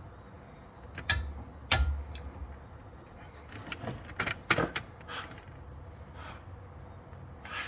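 Scattered sharp clicks and knocks of tools and parts being handled during rear brake pad work on a car: two hard knocks about a second apart early on, a quick cluster of clicks in the middle, and one more near the end.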